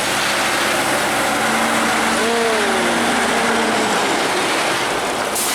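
A heavy truck passing close by: loud, steady engine and tyre noise, with the engine's low hum fading after about the first half.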